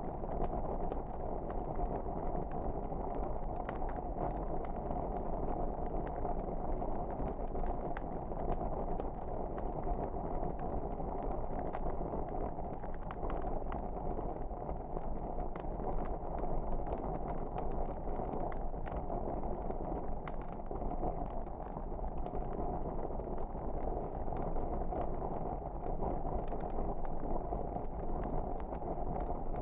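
Wood fire burning in a fireplace: a steady low rush with frequent small, sharp crackles and pops.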